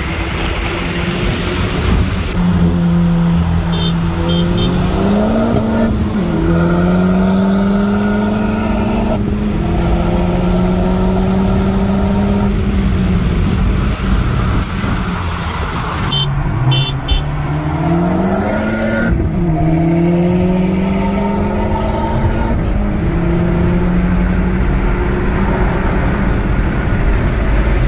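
Resonator-deleted Hyundai Elantra N's turbocharged four-cylinder, heard from inside the cabin, accelerating hard: its pitch climbs steadily and drops at each upshift, several times over, with road and wind noise throughout.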